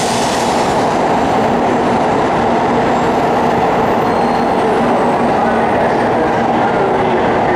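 N700 series Shinkansen train pulling out of the station and rolling past close by, a steady loud rumble of its cars on the rails as it gathers speed.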